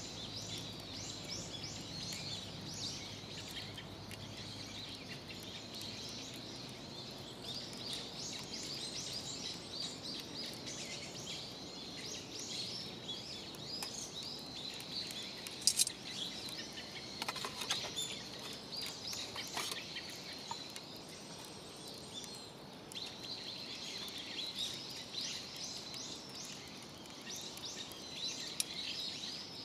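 Continuous high chirping of small birds, dense rapid calls that go on throughout, with a few sharp snaps around the middle.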